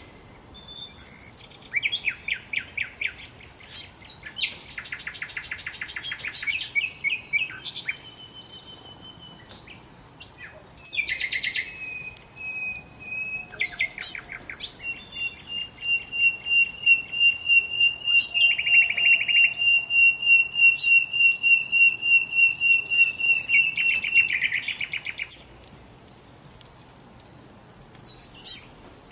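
Songbirds singing: bursts of quick high chirping phrases, and from about halfway in one bird holds a long, even trill of rapid repeated notes for about nine seconds.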